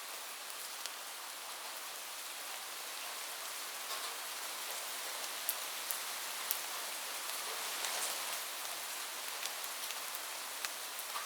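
Steady rain falling on a roof: an even hiss with scattered sharp drip ticks.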